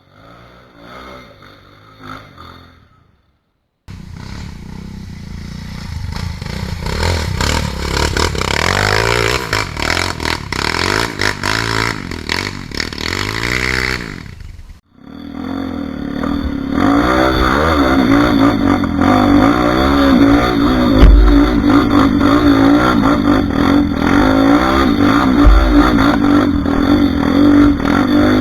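Off-road trail motorcycle engines revving hard under load on a steep climb, pitch rising and falling with the throttle. The sound cuts in loud a few seconds in, breaks off briefly about halfway, then the revving resumes.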